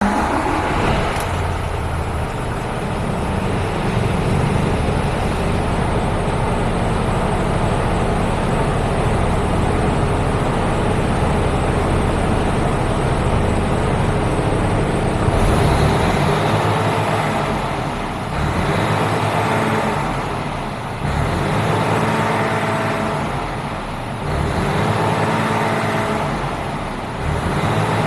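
Mercedes-Benz Actros Euro 6 tractor unit's diesel engine starting right at the beginning and settling to a steady idle. From about halfway it is revved up and down repeatedly, roughly every three seconds.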